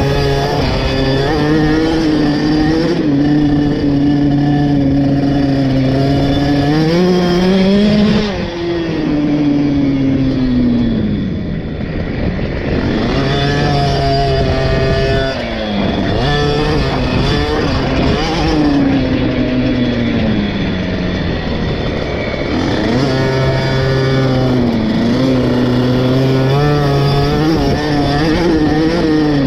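KTM 50 SX's 49 cc two-stroke single-cylinder engine running hard on a motocross track, its pitch climbing under throttle and dropping off when the throttle is closed, several times over.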